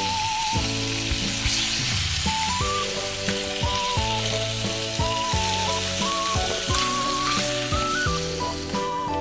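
Food sizzling in a pan, a steady hiss, with background music playing over it. The sizzle cuts off suddenly at the very end.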